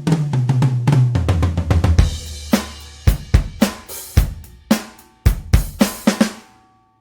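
Toontrack EZdrummer 3 sampled acoustic drum kit playing a pattern. It opens with a fast fill stepping down in pitch, then comes a cymbal crash about two seconds in, then spaced kick and snare hits. It stops shortly before the end and rings out.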